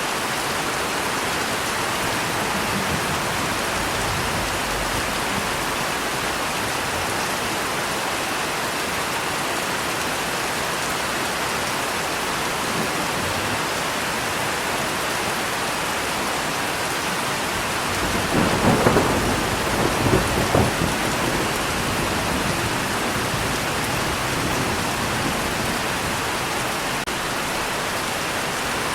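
Steady heavy rain, with a roll of thunder rumbling in about two thirds of the way through and fading over a few seconds.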